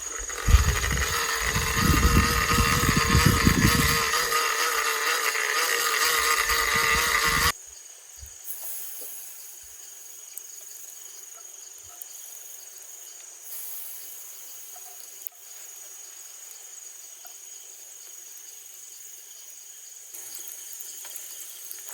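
A loud, noisy stretch with low thumps in its first few seconds that cuts off suddenly about seven and a half seconds in. After that, crickets or other night insects keep up a steady high drone over a faint hiss.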